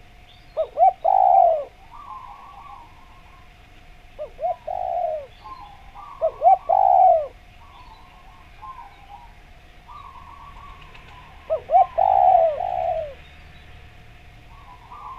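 Spotted doves cooing. One bird gives four loud phrases, each two or three quick short notes followed by a longer falling coo, while a second dove coos more faintly between them. A faint steady tone hums underneath.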